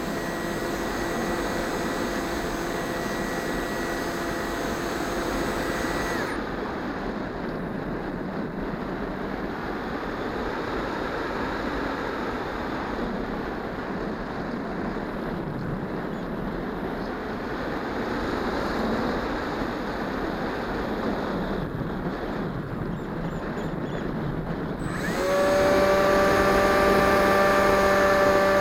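Electric motor and propeller of an EasyStar 2 RC plane whining steadily, then cut about six seconds in, leaving a long rush of wind noise as the plane glides. Near the end the motor comes back on with a louder, lower whine.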